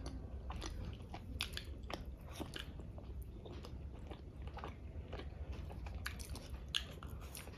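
Close-miked chewing and biting of food, a run of short, crisp crunches at an uneven pace.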